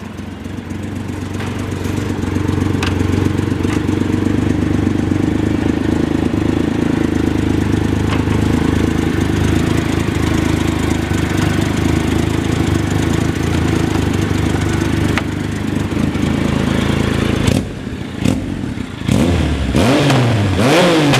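2015 Triumph Trophy SE's 1215 cc inline-three engine idling steadily, then revved in a few quick blips near the end, the pitch rising and falling each time.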